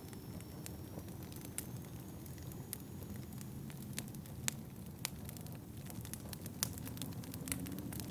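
Wood fire crackling, with irregular sharp pops over a steady low rumble of wind.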